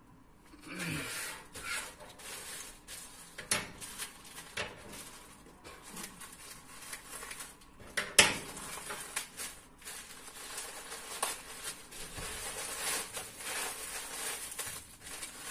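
A courier parcel being opened by hand: packaging rustling and crinkling, with scattered clicks and knocks, the sharpest about eight seconds in.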